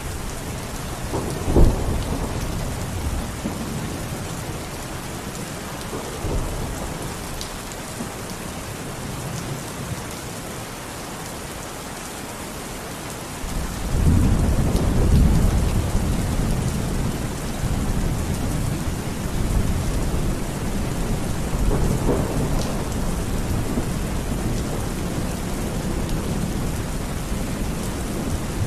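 Steady heavy rain with thunder: a sharp clap about a second and a half in, then rolling thunder that sets in about halfway through and rumbles on in low swells.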